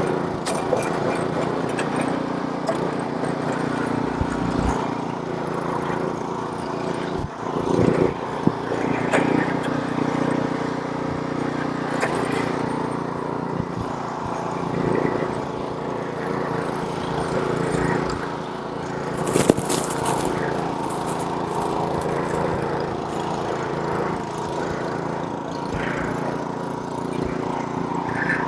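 Small gasoline snowblower engine running steadily under load while clearing snow, with a few short knocks and a brief hiss about two-thirds of the way through.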